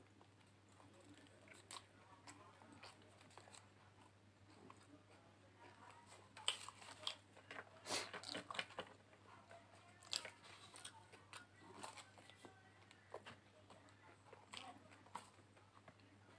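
A person chewing and biting into an egg roll, faint and close, with short irregular mouth clicks and small crunches. The sounds come thickest and loudest in the middle.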